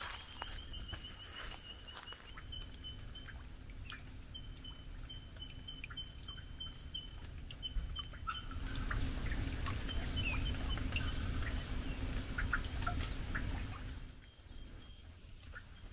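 Birds calling: a rapid series of short, evenly repeated high pips, then scattered chirps, over a low rumble that swells in the middle and drops away near the end.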